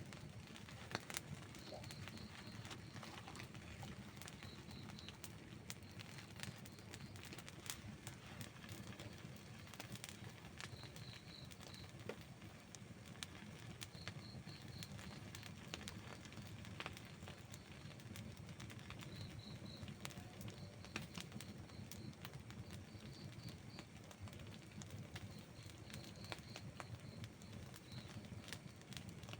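Outdoor wood campfire burning, with scattered crackles and a few sharper pops over a low steady rumble. A faint high chirping comes and goes in short groups.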